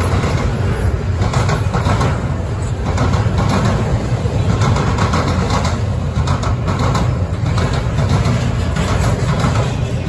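Double-stack intermodal freight cars rolling past, a steady low rumble of steel wheels on rail with light clatter through it.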